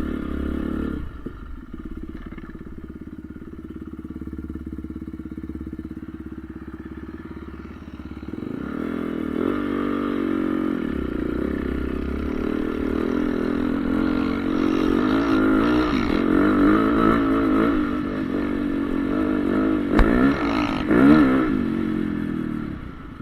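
Honda CRF450R's single-cylinder four-stroke motocross engine running, fainter at first and then louder from about eight seconds in, with the revs rising and falling several times near the end. A single sharp click comes about twenty seconds in.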